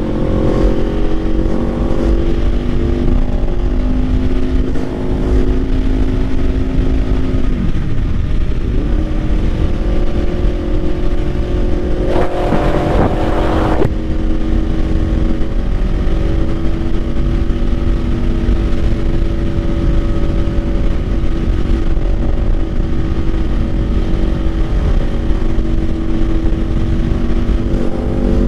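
Kawasaki Ninja 500's parallel-twin engine running at a steady cruise under a strong low wind rumble. The engine note dips and climbs back about eight seconds in, and a brief rushing hiss passes between about twelve and fourteen seconds in.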